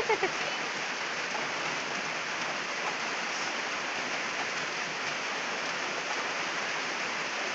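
Steady rain falling on the ground and the plastic water containers: an even hiss that holds at one level throughout.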